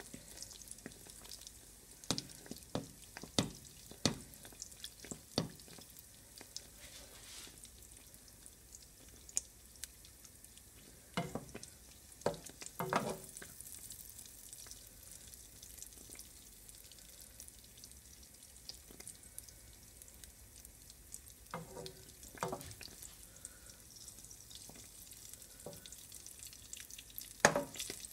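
Dough bakes shallow-frying in oil in a nonstick pan: a soft, steady sizzle, broken several times by bursts of tapping and scraping from a spatula against the pan, the loudest near the end.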